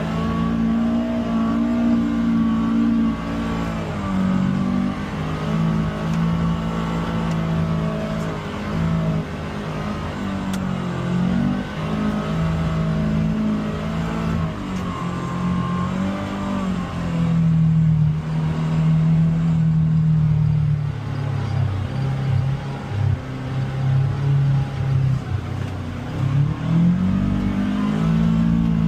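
UTV engine running under load on a trail, its pitch rising and falling as the throttle is opened and eased off again and again.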